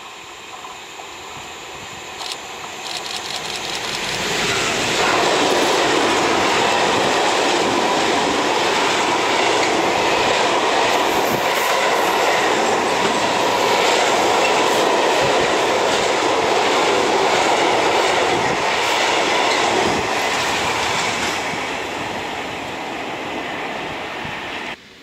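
Freight train of tank wagons passing close by: the noise builds as it approaches, the wagons' wheels rumble with repeated clicks over the rails for about fifteen seconds, then it fades as the train moves away and cuts off just before the end.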